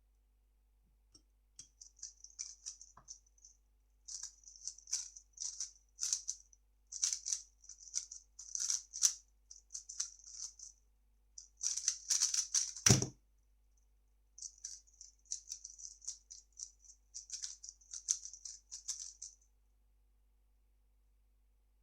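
3x3 speedcube being turned fast, a dense run of plastic clicking and rattling from the layer turns in quick bursts. About thirteen seconds in, the turning ends with one loud low thump, followed after a short gap by another few seconds of turning.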